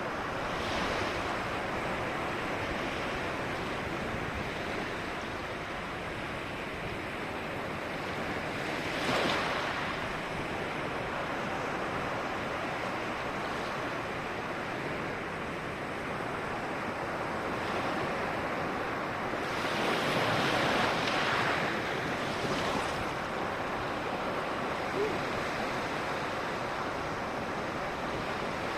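Ocean surf washing onto a small beach: a steady rush of waves, with louder breakers about nine seconds in and again around twenty to twenty-two seconds.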